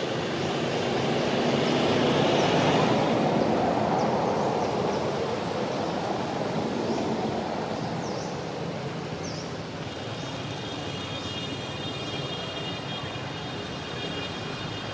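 Outdoor road ambience: a passing vehicle's noise swells and fades over the first several seconds. A few short chirps follow, and a steady high-pitched buzz sets in about two-thirds of the way through.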